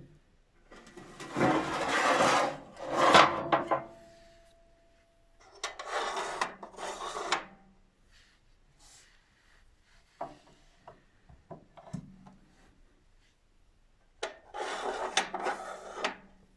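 Rough rasping, scraping sounds in three bursts of one to three seconds, the first the loudest, with a few short knocks in between.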